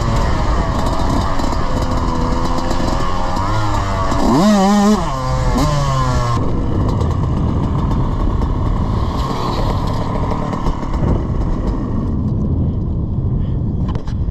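Small off-road engine running under changing throttle, its pitch wandering up and down. It revs sharply to a peak about four and a half seconds in, then drops back.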